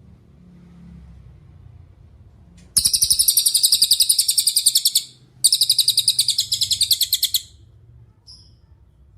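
Cililin bird singing two loud, very rapid high-pitched trills, each about two seconds long, with a short break between them. A faint short note follows.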